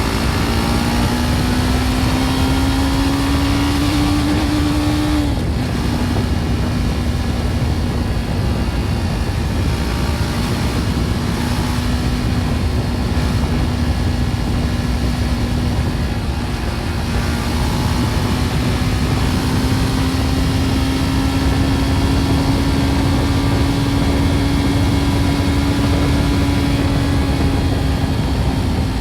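BMW G310 R's single-cylinder engine through its stock exhaust, rising in pitch as it accelerates, then dropping sharply about five seconds in at a gear change. It then cruises at a steady pitch that climbs slowly and eases a little near the end, over a constant rush of wind and road noise.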